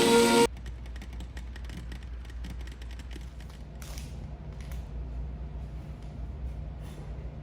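Music cuts off about half a second in, leaving a steady low hum with a few faint clicks and taps.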